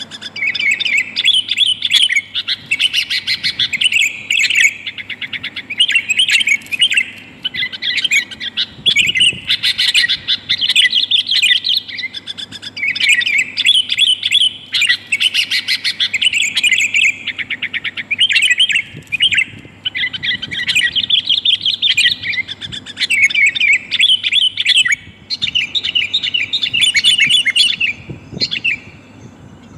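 Sooty-headed bulbul (kutilang) chattering, rapid and loud, in bursts of a few seconds with short breaks. The uploader presents it as a female calling a male, used as a lure call. A faint steady low hum runs underneath.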